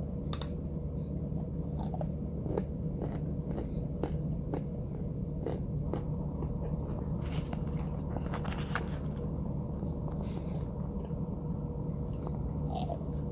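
Close-up chewing of a mouthful of packed white powder: a run of irregular, crisp crunches from the mouth over a steady low hum.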